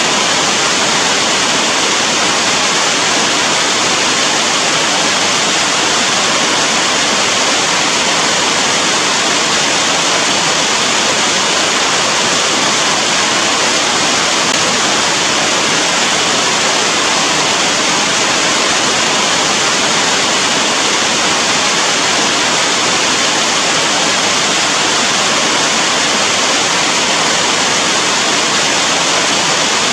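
Steady rain falling, a dense, even hiss with no single drops standing out and no change in strength.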